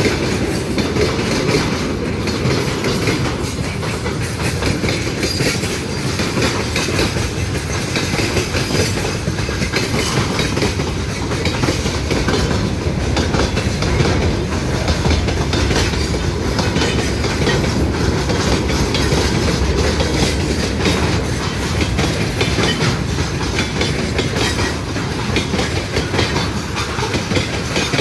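Train passing close by, its wheels clattering over the rail joints in a continuous run of clicks.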